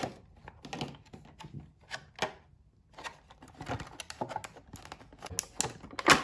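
Plastic blister packaging and card crackling and clicking in irregular bursts as a die-cast toy is being opened, with a short lull partway through and one sharper snap near the end.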